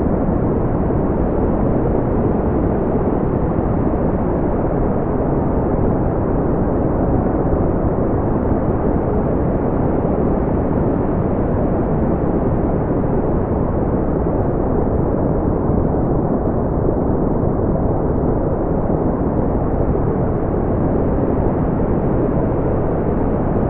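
Steady brown noise: a deep, even rumbling hiss, strongest in the low end and smoothed off above the upper mids, with no change in level.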